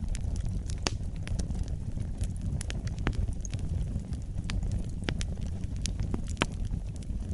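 Wood fire burning in a fireplace, a steady low rumble of flames with frequent sharp crackles and pops at irregular intervals.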